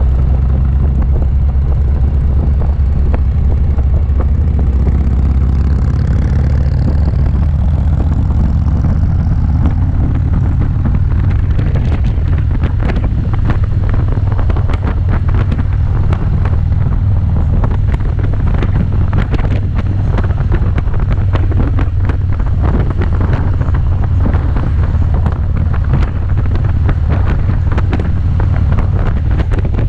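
Wind buffeting the microphone over the steady low drone of a motorcycle engine under way. The buffeting turns gustier and crackly about a third of the way in.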